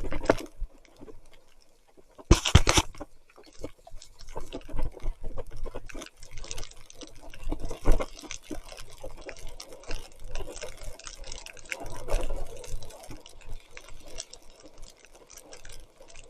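Mountain bike riding through mud and rainwater: irregular wet splashing and squelching with scattered rattles and clicks, and one sharp knock about two and a half seconds in.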